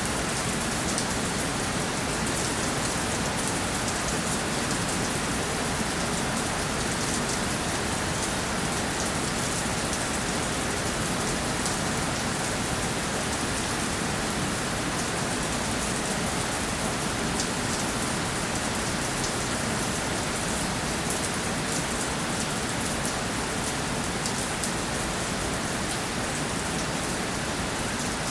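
Steady rainfall pattering on surfaces: a dense, even hiss of drops with fine individual drop ticks in the highs.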